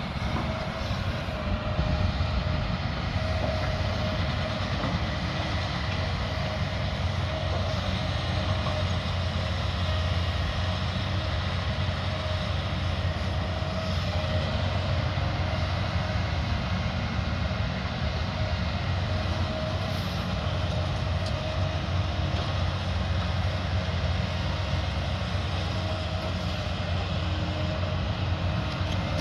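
Diesel engine of a heavy earthmoving machine running steadily under work, a continuous low rumble with a faint steady whine above it.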